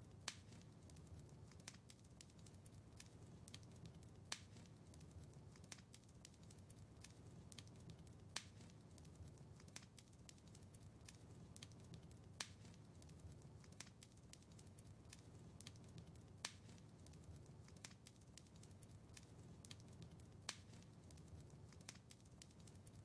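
Wood fire crackling softly over a low steady rumble, with frequent small ticks and a louder sharp pop about every four seconds.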